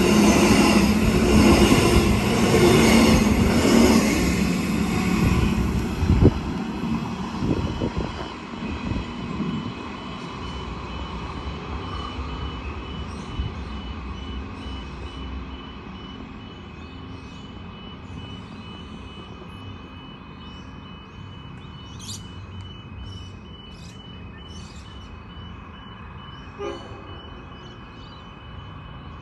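Train passing close by, loud at first and fading away over the first eight seconds or so, leaving a quiet background with a faint steady high tone.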